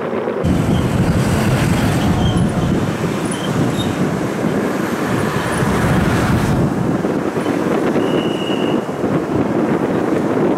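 Electric commuter trains running over a railway viaduct: a Seibu 6000-series and then a red-striped Tokyu Toyoko Line train, giving a steady rumble of wheels on rail. The sound changes about six and a half seconds in as the second train takes over, and a brief high squeal comes about eight seconds in.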